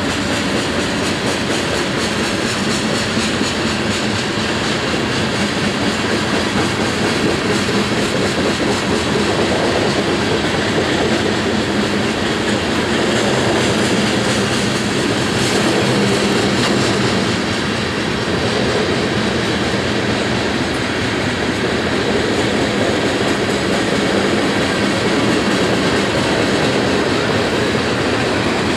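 Loaded coal hopper cars of a freight train rolling steadily past, their steel wheels running continuously on the rails.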